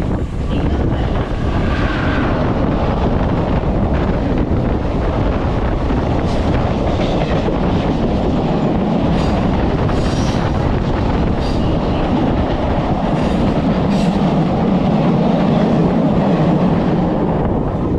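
Hyderabad MMTS suburban electric train running along the track: a steady rumble with scattered sharp clicks of the wheels over rail joints, loudest in the middle of the run.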